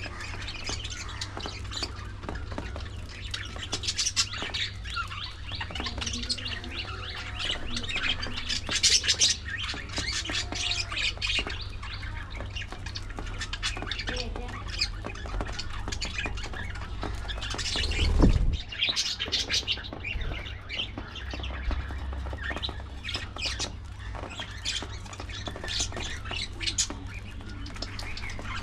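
A colony of budgerigars chattering, with many overlapping high chirps and squawks. About two-thirds of the way through there is one brief loud rumble, and a steady low hum sits underneath.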